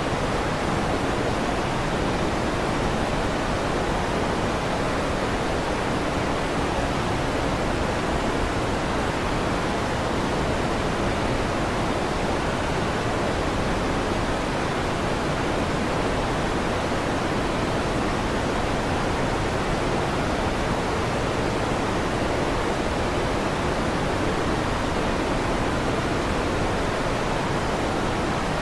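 Electric fan running with a steady, even whoosh that does not change, and no thunder.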